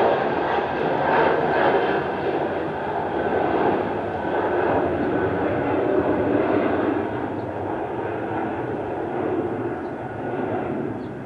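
Jet airliner's engines at takeoff thrust, a broad steady rush that slowly fades as the aircraft climbs away.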